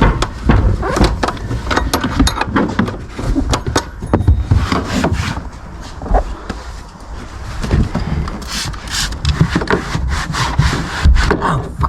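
Close rubbing and scraping with many irregular clicks and knocks, as of hands working parts and wiring on a car. It eases off for a moment midway, then picks up again.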